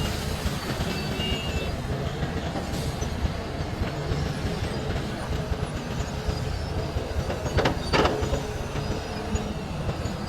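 Hitachi mining excavator at work: its diesel engine runs with a steady rumble amid metallic clanking, and two sharp clanks come close together about three-quarters of the way through.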